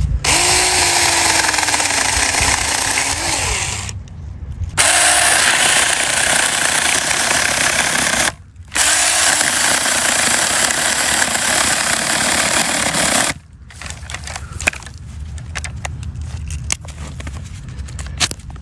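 Saker mini cordless electric chainsaw cutting a branch in three runs, its motor pitch sagging under load, then stopping about thirteen seconds in as the saw jams in the cut. Light knocks and rustling follow.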